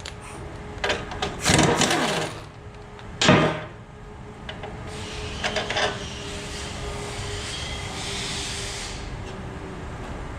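Tool work on a partly dismantled engine: a few sharp knocks and clanks in the first few seconds, the loudest about three seconds in. Then a steady hiss lasts about four seconds.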